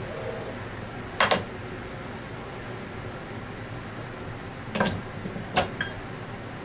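Metal tools and parts clinking and knocking on a workbench as a seal-installation fixture is handled during a scroll pump rebuild: a quick double knock about a second in, then two more sharp clinks near the end, one with a brief metallic ring, over steady room noise.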